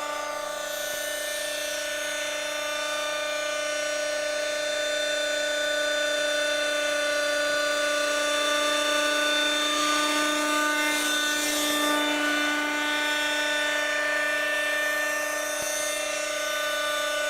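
Schlüter Magic radio-controlled model helicopter running, its small two-stroke glow engine and rotor giving a steady high-pitched whine that swells slightly in loudness midway.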